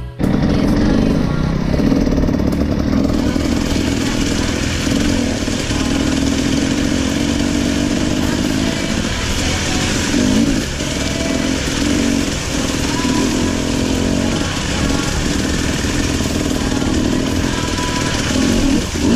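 Enduro dirt bike engine running steadily under way, heard close from the rider's onboard camera.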